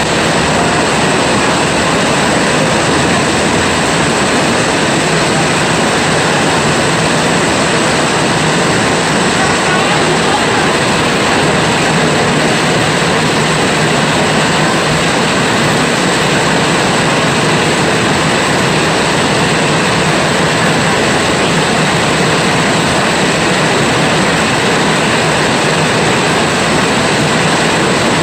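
Heavy rain pouring down, a loud steady rushing hiss.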